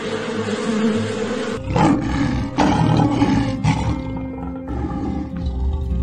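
A hornet buzzing, then from about two seconds in a lioness roaring in a few deep, rough calls.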